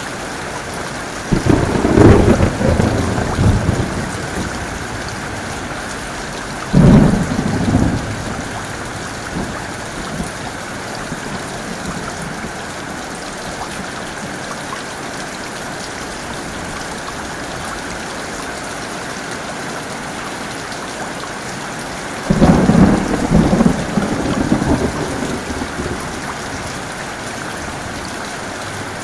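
Heavy rain falling steadily through a thunderstorm, broken by three loud thunderclaps that come on suddenly and rumble away. The first comes a second or two in and rolls on for a couple of seconds, a shorter one follows about seven seconds in, and a longer rolling one comes about twenty-two seconds in.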